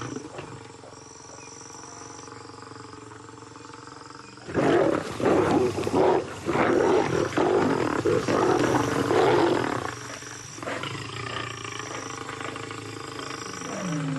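Male lions snarling and growling at each other in a territorial standoff, loudest and roughest from about four and a half seconds in until about ten seconds, quieter before and after.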